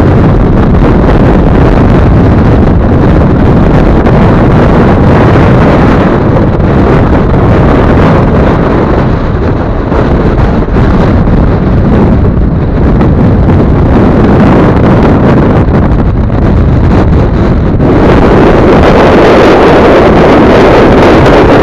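Strong wind of about 9 m/s buffeting the microphone: a loud, continuous rumbling noise that swells further near the end.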